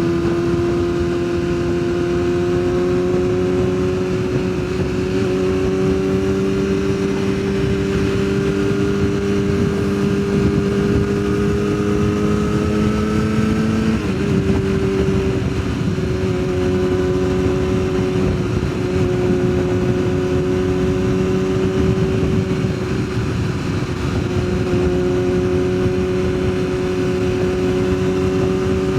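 Yamaha sportbike engine running at a steady cruise, its pitch slowly rising as it gains speed, then dropping suddenly about halfway through at an upshift before holding steady. Wind rush on the helmet microphone runs underneath.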